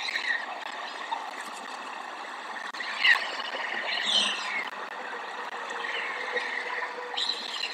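Several short, falling bird chirps over a steady background hiss, with a faint steady hum coming in about two-thirds of the way through.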